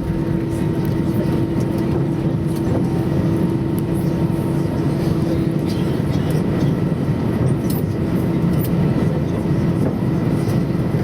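Cabin noise of an Airbus A320 taxiing after landing: the engines and airframe give a steady rumble, with a steady hum that stops about six seconds in, and a few faint rattles.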